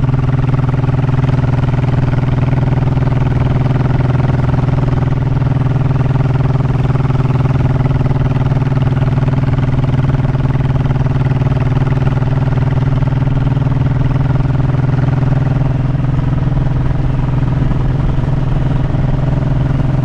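Honda motorcycle engine running at a steady speed while being ridden, its pitch holding level with no revving or gear changes.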